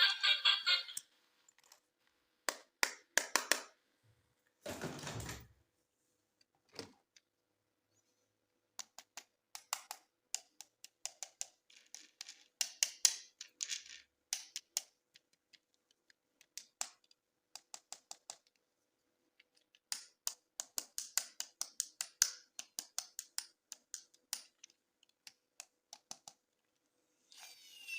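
Hard plastic toy parts and packaging being handled: clusters of sharp clicks and taps separated by pauses, with a short scraping rush about five seconds in.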